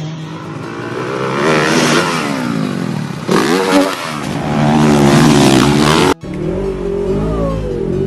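Off-road vehicle engines revving hard, the pitch rising and falling repeatedly. About six seconds in the sound cuts off abruptly and a different engine sound follows.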